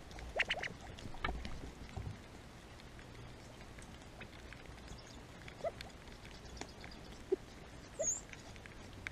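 Quiet outdoor background with scattered short chirps and clicks from small animals, a few sharper clicks in the first two seconds.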